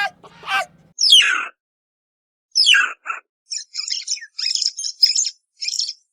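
Bird calling: two loud calls that fall in pitch, then rapid, high-pitched chirping in quick bursts over the last few seconds.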